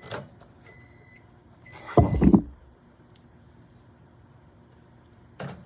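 Microwave oven beeping at the end of its cycle, a few steady high beeps, followed about two seconds in by a loud short knock and rattle, the loudest sound here.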